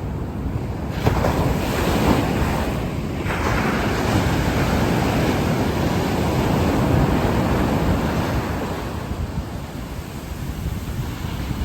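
Sea waves breaking and washing ashore, with wind buffeting the microphone. A wave crashes in about a second in and another soon after, the surf eases off late on and then builds again at the end.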